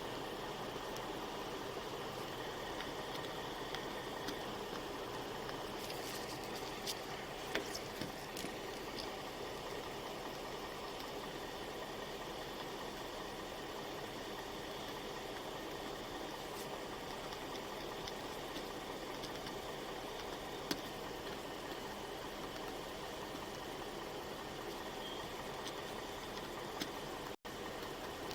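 Steady hum of an idling vehicle engine and its fan, with a few faint clicks.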